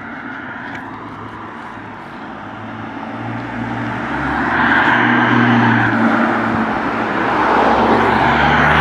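A car engine running, getting louder from about three seconds in and staying loud.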